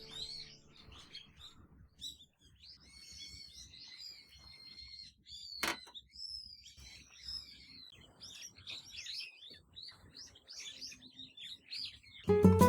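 Small wild birds chirping and calling in quick, repeated short notes, with a single sharp click a little before halfway.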